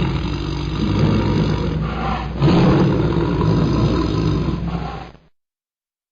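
Tiger growling: one long growl that gets louder again about two and a half seconds in, then fades and stops abruptly about five seconds in.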